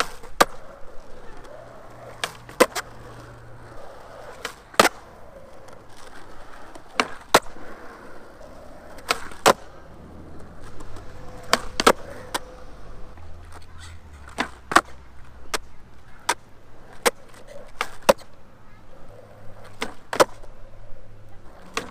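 Skateboard on Avenue suspension trucks doing flat-ground tricks: the wheels roll steadily, broken again and again by sharp tail pops and board landings, often in quick pairs.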